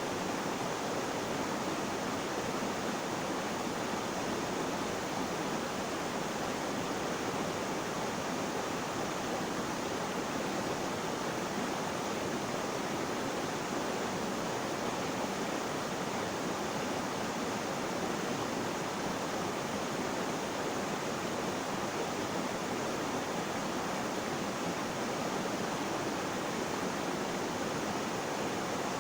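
Water flowing steadily, an even rushing hiss that does not change.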